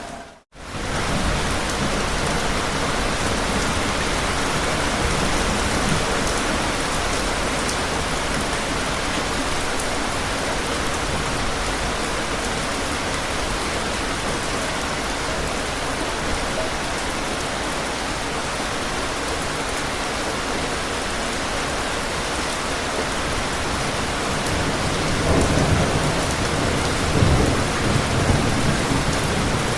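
Steady rain falling on a surface, a dense even hiss. The sound cuts out completely for a moment about half a second in. Near the end, low rumbles of distant thunder swell under the rain.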